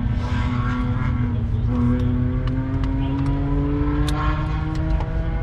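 Car engine running steadily, its note rising slowly and evenly as the revs climb.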